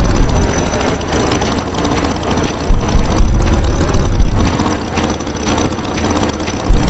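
Tractor engine running steadily with a rough, chugging rumble.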